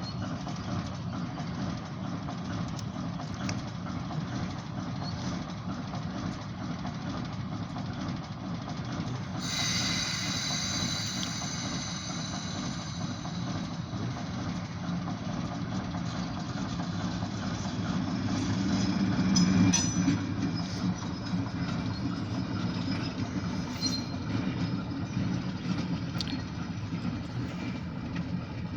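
Diesel locomotives running light: a steady engine rumble and wheels on the rails, growing louder about two-thirds of the way through. A high squeal lasts a few seconds about ten seconds in.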